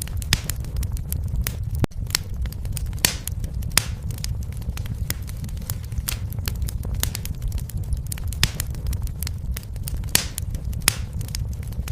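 Fireplace fire crackling: irregular sharp pops and snaps, a few of them louder, over a steady low rumble of the flames.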